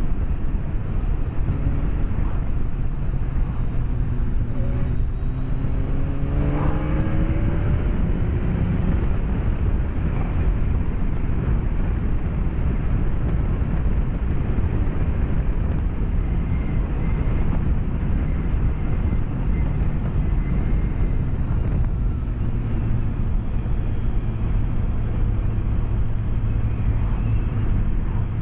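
BMW K1200S inline-four engine running under way, heard from a microphone inside the rider's helmet with steady wind rush. About six seconds in the engine note rises as the bike accelerates, then settles back to a steady cruise.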